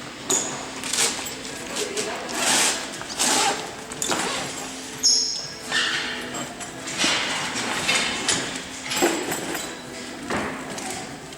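Boat canopy fabric rustling and swishing in irregular bursts as it is handled and folded, with a few soft thumps.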